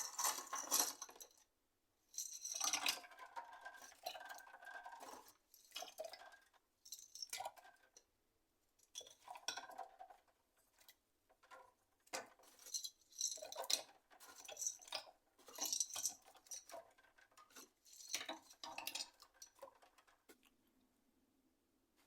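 Plastic keyboard keycaps clattering and clinking together as they are handled in a container for washing, in irregular bursts with short pauses between them.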